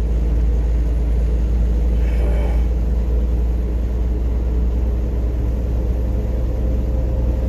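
Steady low engine and road drone heard from inside a vehicle's cab while driving on a wet road in the rain.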